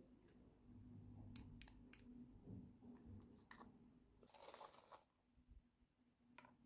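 Faint handling of small plastic toy pieces: three quick sharp clicks close together, a single click later, and a brief rustle like packaging being crinkled, over a faint steady hum.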